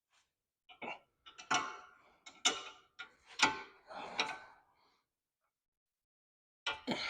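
Irregular metallic clicks and clinks of a wrench working a bolt on a car's front suspension. They pause for about two seconds, then resume near the end.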